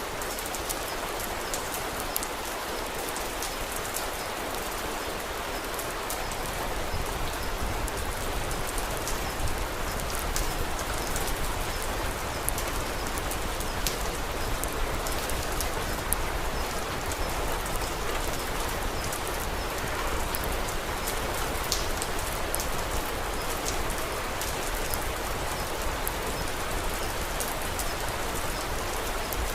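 Steady rain falling, an even hiss with many scattered small sharp ticks throughout.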